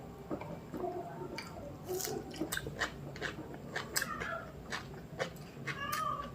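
Close-miked chewing of mutton biryani, with irregular wet mouth clicks and smacks.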